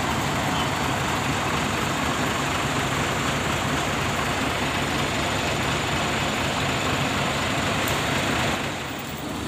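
Heavy diesel truck engine running steadily, a low rumble under a broad even noise, easing off briefly near the end.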